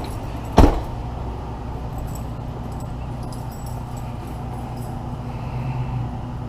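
Tow truck engine running steadily, heard from inside the cab, with one sharp thump a little over half a second in.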